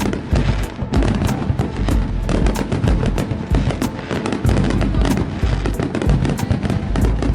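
Fireworks salute going off in rapid succession, a few sharp bangs and crackles a second with no let-up, over music with a heavy bass.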